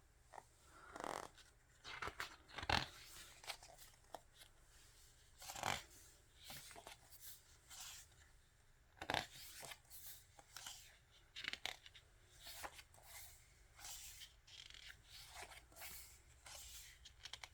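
Pages of an album photo book being turned by hand: a string of short, faint paper rustles and flicks at irregular intervals.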